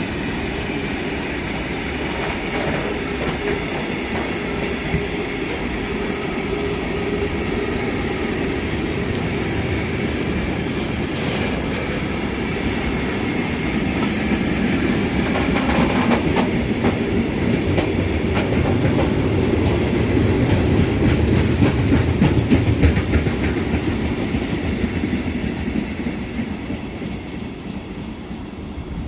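A train rolling past, its wheels clattering over the rail joints. It grows louder about two-thirds of the way in, then fades near the end.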